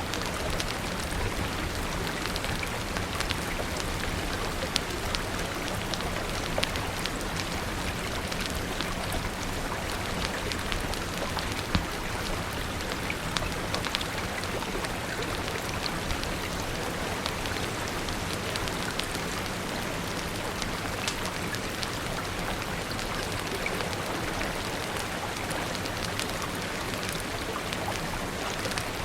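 Steady rain falling, an even rushing hiss, mixed with frequent small sharp crackles and pops of a wood fire scattered throughout.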